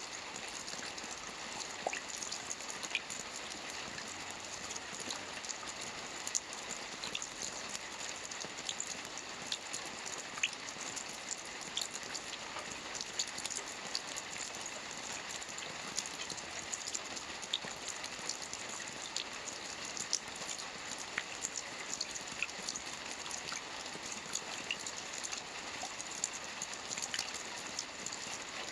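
Steady rain falling on a lake's surface, an even patter with many small scattered drop ticks.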